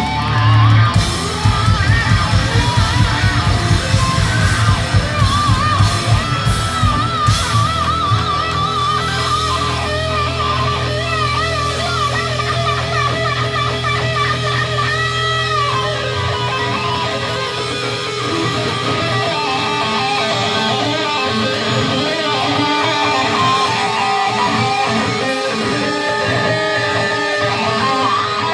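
Live heavy metal band playing loudly: an electric guitar lead with wavering, bent notes over fast, pounding drums. About halfway through the heavy low drumming falls away and the guitars carry on.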